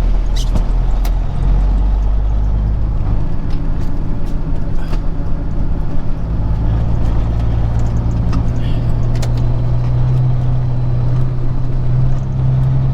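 Peterbilt 379 semi truck's diesel engine running while driving, heard inside the cab: a steady low drone that grows stronger and rises slightly in pitch from about halfway through.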